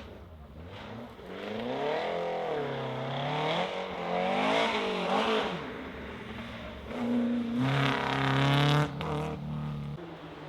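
Rally car engine running hard, its pitch rising and falling several times as it revs through the gears, then a louder held note that cuts off sharply a little before nine seconds as the driver lifts off the throttle.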